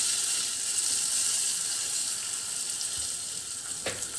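Curry leaves sizzling in hot ghee and chilli powder in a small steel tadka pan: a steady spitting hiss that eases slightly.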